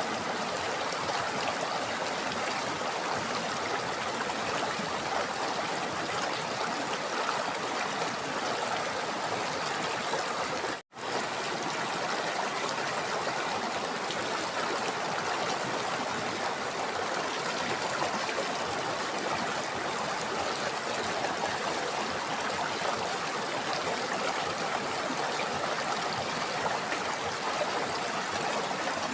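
River water running steadily, an even rushing flow. It cuts out completely for a split second about eleven seconds in.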